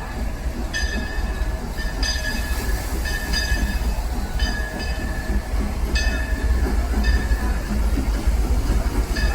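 Steam excursion train rolling slowly with a steady low rumble, broken by short, high-pitched metallic squeals roughly a second apart.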